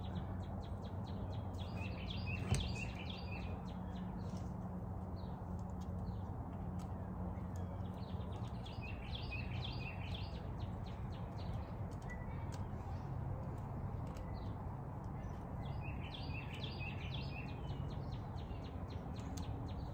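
A songbird singing a short burst of high chirps three times, about every seven seconds, over a steady low hum. A single sharp click comes about two and a half seconds in.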